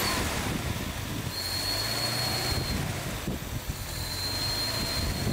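1983 Toyota Corolla KE70's 1.3-litre single-cam carburetted engine running just after starting. A thin high whine comes in twice over the steady engine noise.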